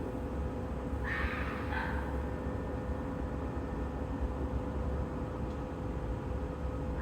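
An unidentified animal gives two short, harsh calls about a second in, a fraction of a second apart, over a steady low background rumble.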